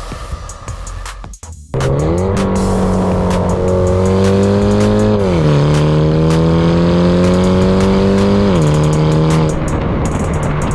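Mini Cooper S JCW's turbocharged four-cylinder engine through a valved aftermarket exhaust, accelerating hard through the gears. The engine note climbs, drops sharply at an upshift twice, and eases off near the end.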